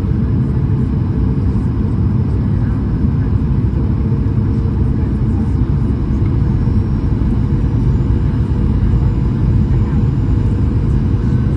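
Boeing 737-800 jet airliner, a steady low rumble of engines and airflow with a faint steady hum just under it, unchanging in level.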